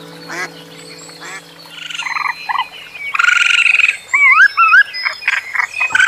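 A few faint duck quacks at first, then a run of louder animal calls: rasping bursts followed by short rising squeaks.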